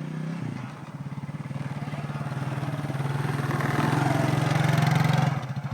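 1992 Suzuki QuadRunner 300 ATV's single-cylinder four-stroke engine running at a steady pitch, still cold and not yet warmed up after its first start of the year. It grows louder for about four seconds, then drops off suddenly near the end.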